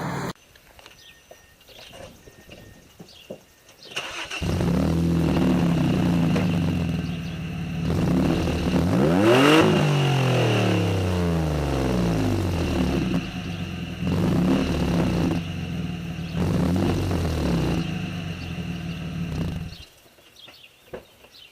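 Mazda 6s V6 with a straight-piped exhaust starting up about four seconds in. It runs and is revved several times, the biggest rev rising and falling near the middle. It is shut off a couple of seconds before the end.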